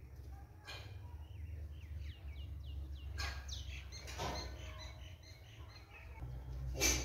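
Small birds chirping in quick runs of short, falling chirps. A few sharp clicks or rustles break in, the loudest near the end, over a steady low rumble.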